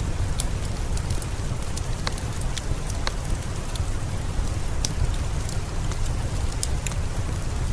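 Steady rain with a deep, even rumble underneath, mixed with the scattered sharp crackles of a wood fire, a few every second.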